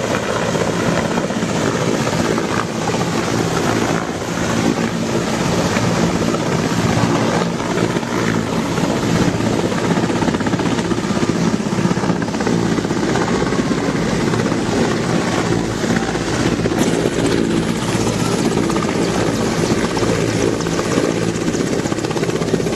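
Military helicopter running close by, its rotor beating fast and steadily over the engine drone. A faint high whine joins about three quarters of the way through.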